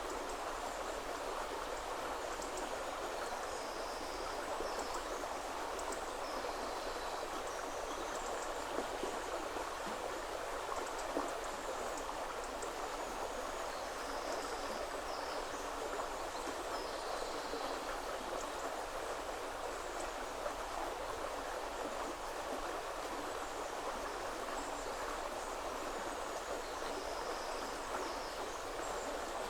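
River water flowing steadily, with short high bird chirps now and then.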